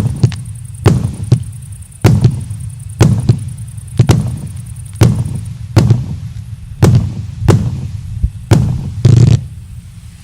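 Consumer fireworks battery (a fan-shaped multi-shot cake) firing shot after shot, about one or two a second: each a sharp report followed by a booming rumble, with a longer burst near the end.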